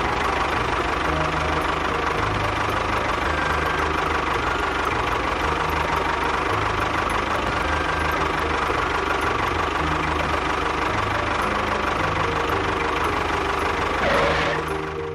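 An engine running steadily with a fast, even knocking beat. It surges up just as it starts and winds down near the end.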